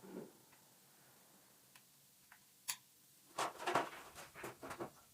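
Metal parts and tools clinking and rattling as they are handled during engine assembly: scattered light clicks, one sharp click about two and a half seconds in, then a quick run of clinks and rattles near the end.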